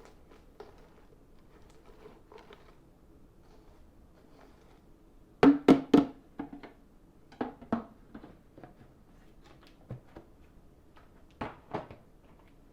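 A series of sharp knocks and clicks with quiet between: three loud ones in quick succession about halfway through, then fainter knocks in pairs. No vacuum motor is running.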